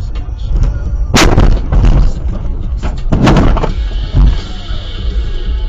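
Vehicle collision: two loud crashes about two seconds apart, each with a short crunching tail, then a brief low thump.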